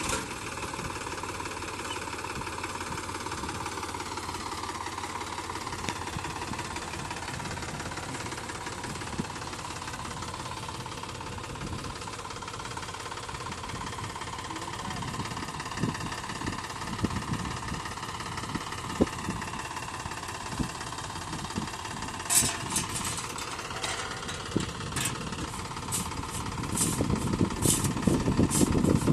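Sonalika tractor's diesel engine running steadily under load, with a series of sharp clicks or knocks in the last several seconds and the engine growing louder near the end.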